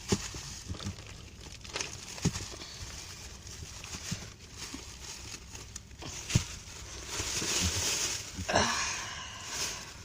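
Tennis balls being put into a bag: scattered soft knocks as balls drop in, with rustling of the bag, a longer rustle about seven seconds in.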